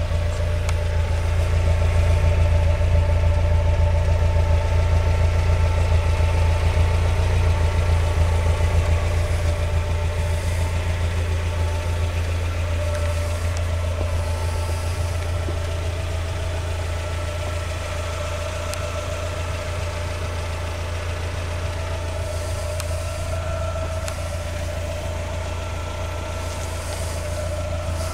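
Mazda MX-5's 1.8-litre four-cylinder engine idling steadily, a constant low hum with a few steady tones above it, a little louder in the first few seconds.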